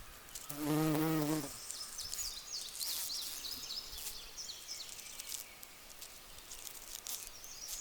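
Bumblebee buzzing in flight close by for about a second, a low steady hum. Faint, repeated high chirps follow.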